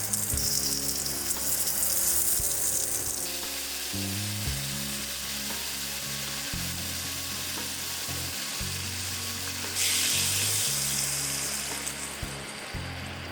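Food frying in a hot pan, a loud sizzle that starts at once, eases after about three seconds and flares up again about ten seconds in.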